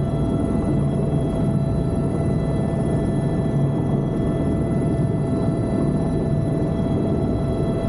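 Helicopter running steadily in flight: a constant heavy rumble with an unchanging high turbine whine over it.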